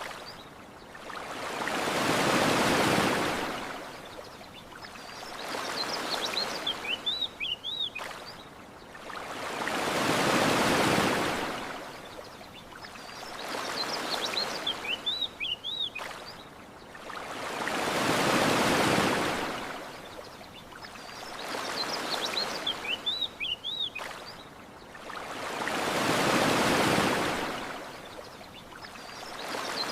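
Gentle sea waves washing onto a shore, one swell about every eight seconds, four in all. Between the waves come short, high chirping bird calls.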